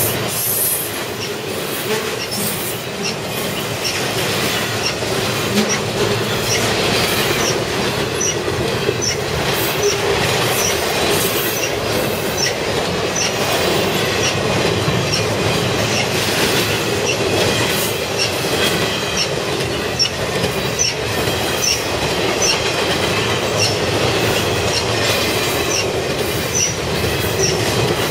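Double-stack intermodal container cars of a CSX freight train rolling past at close range: a steady rumble of wheels on rail, a regular click about every two-thirds of a second, and high, steady squealing tones from the wheels.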